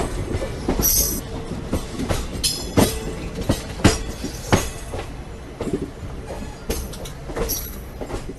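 A train running on the rails: wheels knocking irregularly over rail joints, with several brief high wheel squeals over a steady rumble.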